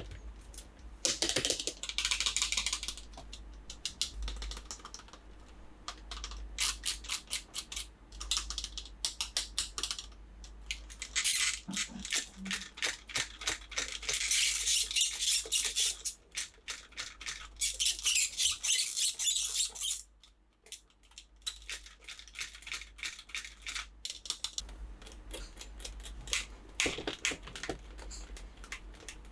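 Hard plastic toys and packaging being handled: quick clicks, taps and rattles, with several short bursts of crinkling or rustling, the loudest between about a quarter and two-thirds of the way through.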